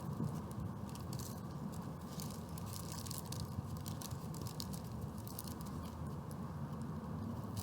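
People chewing tacos, with many small irregular clicks, over a steady low background hum.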